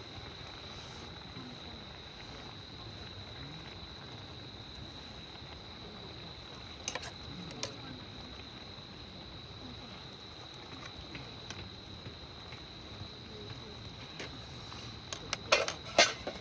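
Steady high-pitched trill of an autumn cricket. There are a couple of clicks about seven seconds in, and a quick run of louder knocks and clatter near the end.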